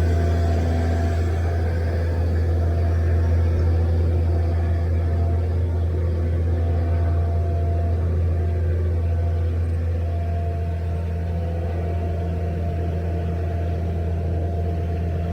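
A large engine running steadily at constant speed, a deep even hum with steady overtones and no change in pitch.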